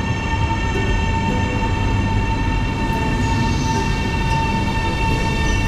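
KLIA Express electric airport train running: a steady low rumble with a constant high-pitched whine.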